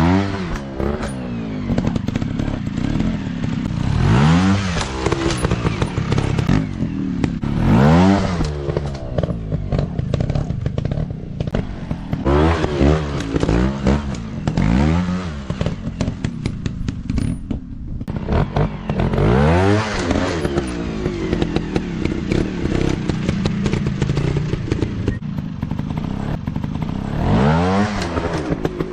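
Dirt bike engine revving in repeated bursts, its pitch rising and falling every few seconds, with clattering over the engine.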